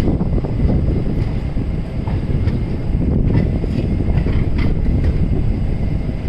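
Passenger train running on the rails: a steady, loud rumble of wheels and coaches, with a few sharp clicks about three and four and a half seconds in.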